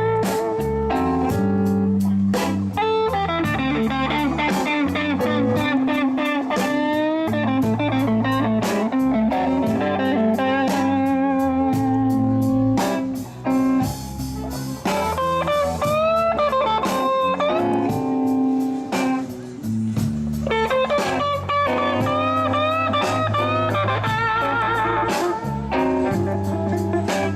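A live band playing slow blues without vocals: an electric guitar lead with bent, wavering notes over bass guitar and drum kit.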